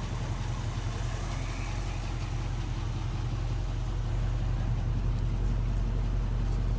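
Classic Ford Mustang's engine idling with a steady low rumble, growing a little louder about four seconds in.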